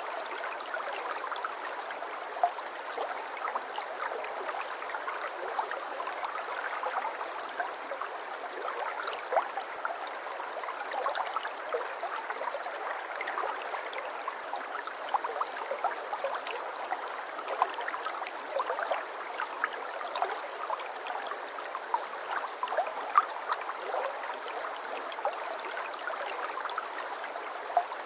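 A shallow brook babbling over stones: a steady rush of running water full of small splashes and gurgles.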